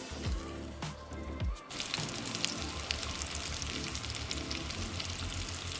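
Salmon and potato cakes frying in hot olive oil in a stainless steel pan: a steady crackling sizzle that starts suddenly a little under two seconds in, after a quieter stretch with a few light knocks.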